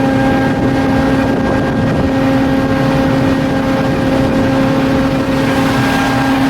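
Cargo ship's engine running steadily under way on sea trials: a loud, constant drone with a steady hum and overtones over a low rumble.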